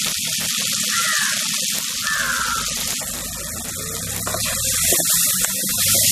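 Tomato-onion masala sizzling steadily in an aluminium kadai over a wood fire, with a steel spoon scraping and tapping the pan a few times in the second half as the spices are stirred in.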